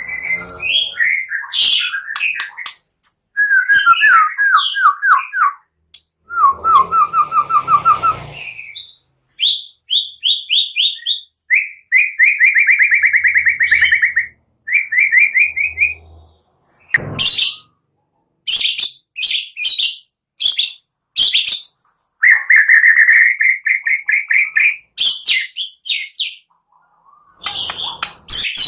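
White-rumped shama (murai batu) singing loudly in varied phrases: fast runs of repeated notes and trills, with short pauses between phrases.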